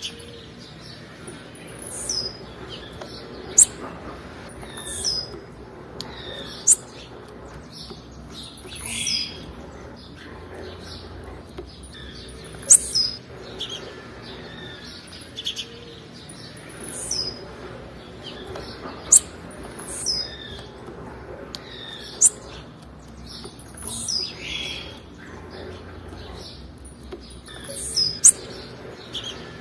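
Blue-black grassquit (tiziu) calling: short, very high, sharp chirps and quick upward-sweeping notes, repeated about every one to two seconds.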